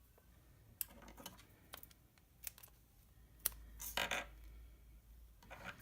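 Light handling sounds of tying a ribbon bow by hand: scattered small clicks and taps, with a brief rustle about four seconds in.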